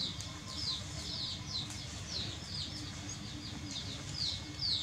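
Small birds chirping in the background: a steady run of short, high, falling chirps, two or three a second.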